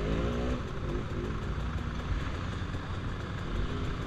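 Dirt bike engines idling at low revs, with a brief rise and fall in engine pitch near the start.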